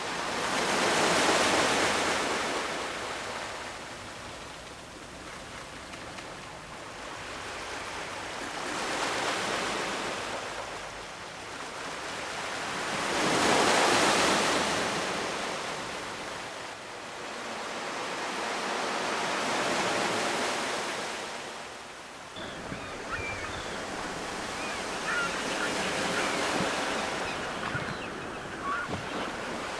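Ocean waves washing onto the shore in slow surges, each rush swelling and fading over several seconds, about every five or six seconds. The loudest surges come about a second in and about halfway through.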